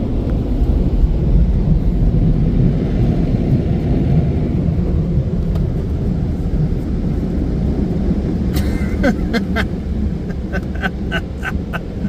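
Car wash air dryer blowing, a loud steady rumble of rushing air. A string of short, sharp clicks comes in over it for the last few seconds.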